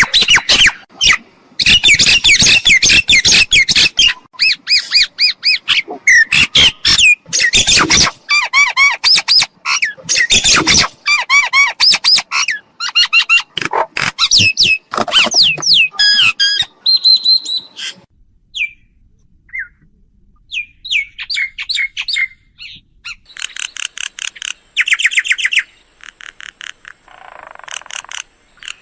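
Mynas calling: a loud, dense jumble of harsh squawks, clicks and whistled notes that thins out about two-thirds of the way through, followed by rapid runs of short repeated notes near the end.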